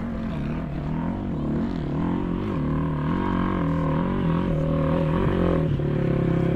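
Racing motorcycle engines on a motocross track, revving up and down repeatedly as the throttle is worked, getting louder. Near the end a steadier, louder engine note takes over as another machine comes closer.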